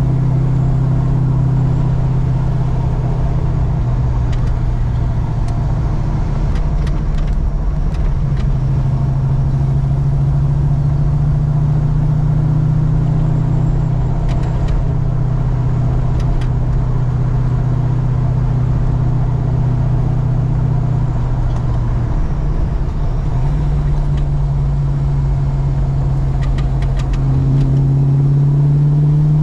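Holden Commodore engine being run in on a drive: a steady drone that steps up and down in pitch a few times as the speed changes.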